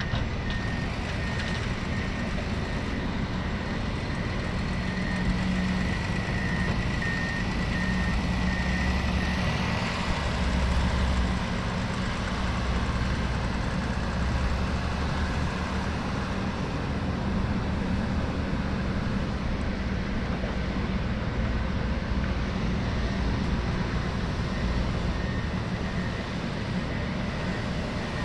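Diesel engine of heavy construction machinery running steadily. A reversing alarm sounds a series of short, high beeps for the first several seconds and again near the end.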